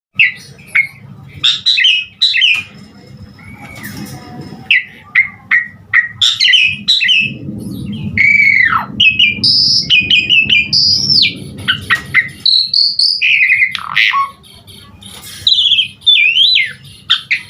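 Javan pied starling (jalak suren) singing a busy, varied song of whistles, chirps and sweeping notes, with mimicked phrases of other birds worked in, over a low steady hum.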